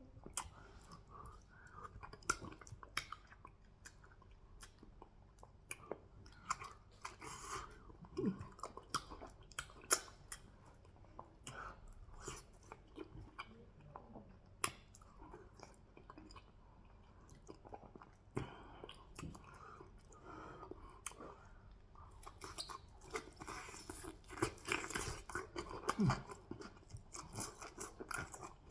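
Close-up chewing and wet mouth sounds of a person eating fufu with goat meat, with irregular smacks and clicks throughout.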